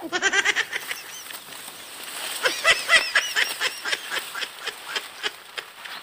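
Bird calling harshly: a fast chattering run of about ten notes a second in the first second, then a longer string of arched calls, loudest about two and a half to three and a half seconds in, thinning out toward the end.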